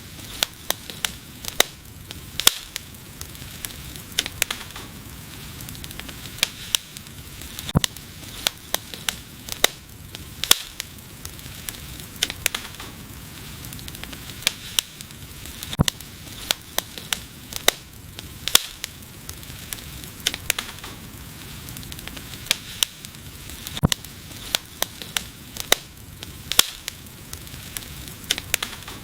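Wood fire crackling: irregular sharp pops and snaps, several a second and some much louder, over a steady hiss of burning.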